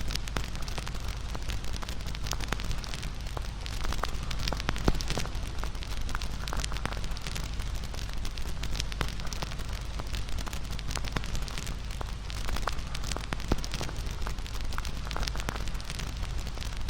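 Wood bonfire crackling: frequent sharp snaps and pops over a steady rushing noise.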